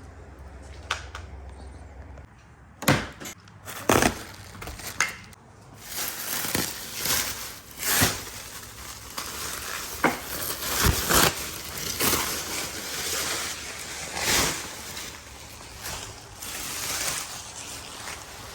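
Boxes and packing material being handled: a few sharp knocks, then a long stretch of rustling, scraping and tearing.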